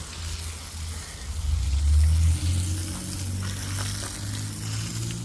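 Engine running with a low rumble that swells into a brief rev about a second and a half in, then settles back, with a steady hiss over it.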